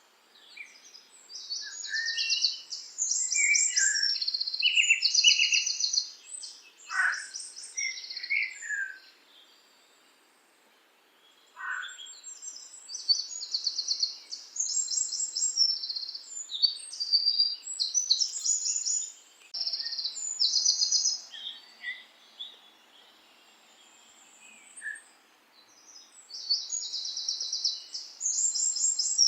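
Songbirds singing: rapid high trills and short chirps in bursts, with a couple of quick falling whistles and brief lulls between phrases.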